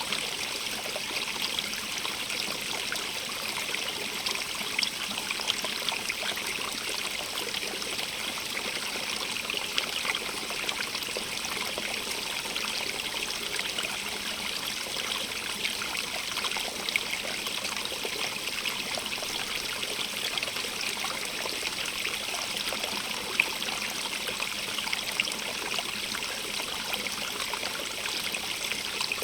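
Small stream running steadily over rocks, a continuous trickling, splashing rush with fine droplet detail.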